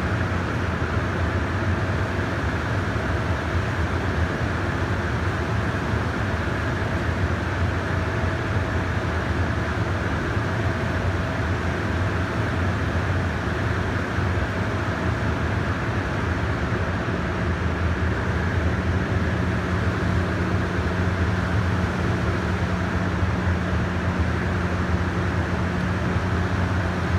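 Steady low drone and hum of a train idling at a station platform, with a further low tone joining about two-thirds of the way through.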